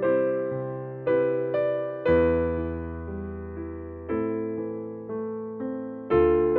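Slow, gentle electric piano playing sustained chords, a new chord or note struck every half second to two seconds and left to fade.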